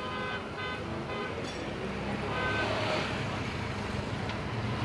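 A steady low engine drone with wind noise on the microphone. It is broken in the first second and a half by several short flat-pitched tones, with one more about two and a half seconds in.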